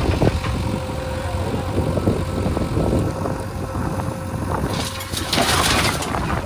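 Heavy diesel engine running steadily with a low rumble; a rush of hiss rises briefly about five seconds in.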